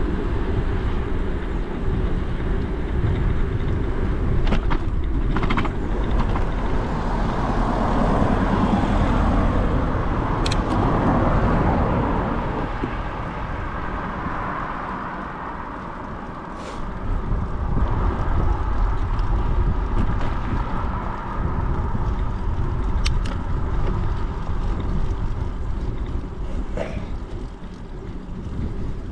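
Wind buffeting the microphone and tyre rumble from a moving bicycle, with a passing vehicle swelling up and fading away between about seven and thirteen seconds in. A few sharp clicks or rattles come through now and then.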